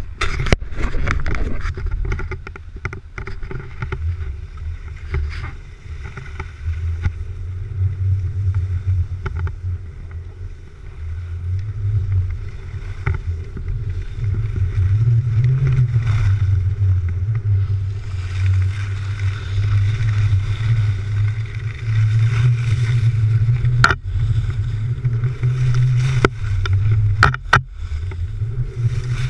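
Heavy wind rumble buffeting the bare microphone of a GoPro Hero3 used without its housing, rising and falling with movement, with a few sharp knocks near the end.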